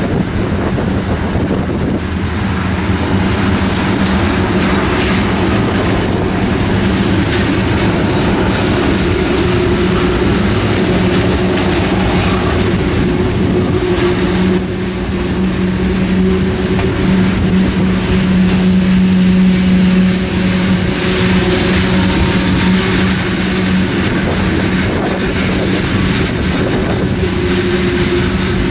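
Freight train of tank cars and open hopper cars rolling past: steel wheels running on the rails, with a steady low hum under the rolling noise.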